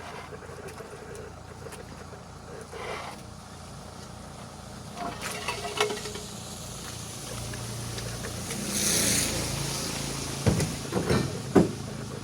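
Sounds of a truck tyre change at the roadside: a steady low engine hum, a loud hissing rush about nine seconds in, then a few sharp metal knocks near the end.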